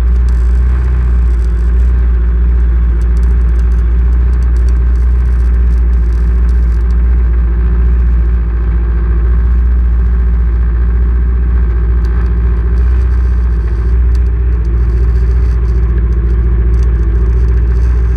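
Legend race car's Yamaha motorcycle engine idling steadily with a deep, even hum. Through it comes the intermittent crackle of a welder working at the rear of the car.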